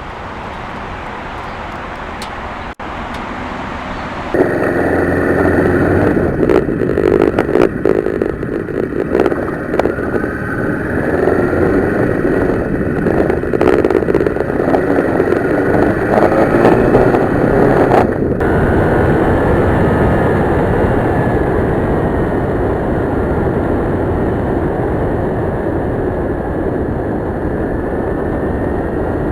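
Kawasaki Ninja 650R parallel-twin motorcycle under way, heard from on board with wind noise on the microphone. The sound jumps suddenly louder about four seconds in and is choppy until about eighteen seconds in, then steadier.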